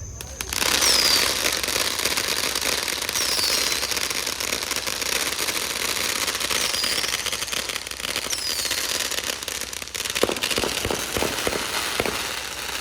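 Fireworks crackling densely, with several short falling whistles over the crackle and a run of sharp bangs near the end.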